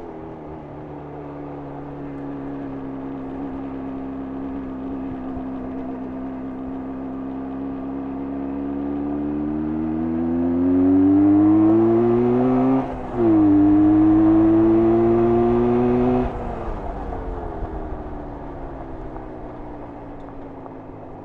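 1994 Jawa 350's two-stroke twin engine under way. It rises in pitch as the bike accelerates and drops briefly about 13 seconds in, like a gear change. It pulls up again, then the throttle closes about three seconds later and the engine falls away on the overrun.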